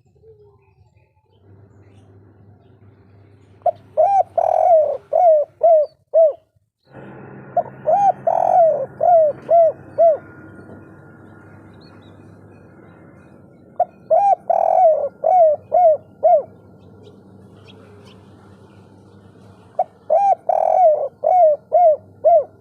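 Spotted dove (tekukur) singing its 'kuk 3' cooing song. There are four phrases about six seconds apart, each a run of six or seven clear coos, over a faint steady hum.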